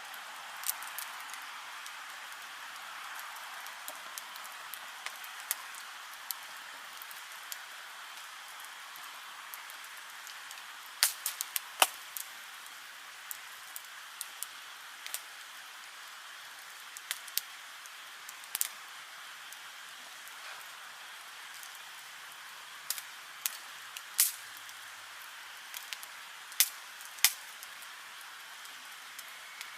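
Wood campfire burning with a steady soft crackle and scattered sharp pops and snaps, the loudest cluster about a third of the way in and several more near the end.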